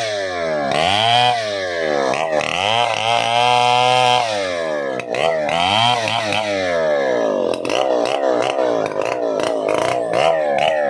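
Stihl 070 two-stroke chainsaw running, its throttle blipped repeatedly so the engine note climbs and drops several times. It is held at high revs for about a second midway, then wavers at a part-throttle speed near the end.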